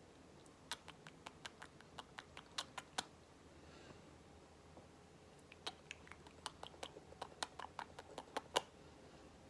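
Pet budgerigars tapping and pecking with their beaks at a hard surface: faint, irregular sharp clicks in two quick runs, one starting about a second in and another from about halfway.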